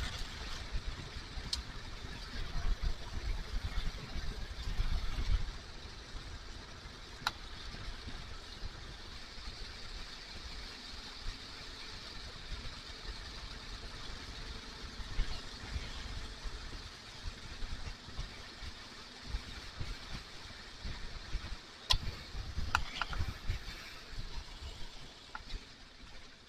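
Kawasaki KLR motorcycle riding along, its engine running under steady wind rush; the low rumble is heavier for the first five seconds or so, then eases, with a few faint clicks.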